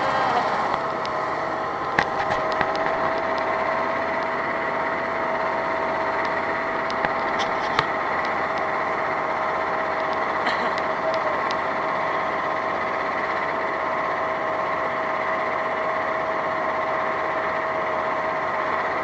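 Vehicle engine running at a constant speed, with a steady whine and a few sharp knocks, about two seconds and eight seconds in.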